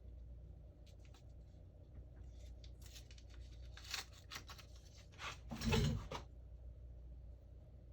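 Small scrapes, clicks and tearing noises of hands and tools working on a phone, loudest in a short rasping burst about six seconds in, over a low steady hum.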